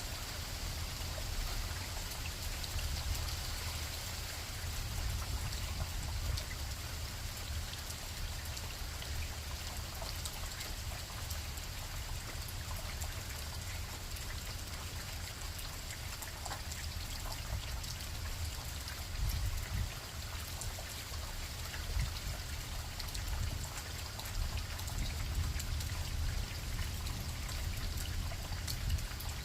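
Steady rain falling, with drops pattering, and breeze rumbling unevenly on the microphone.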